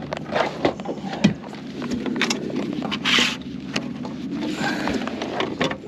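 Irregular knocks, taps and rattles of a bass being handled and measured aboard a plastic fishing kayak, with a short rush of noise about three seconds in.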